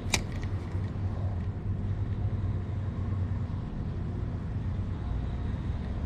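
Steady low outdoor rumble with a single sharp click just after the start.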